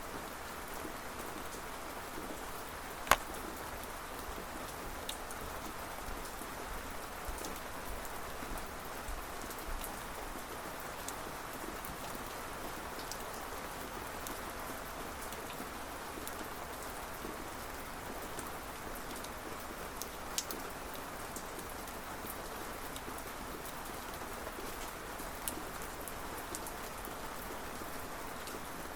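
Steady rainfall with scattered sharp ticks of single drops, the loudest about three seconds in.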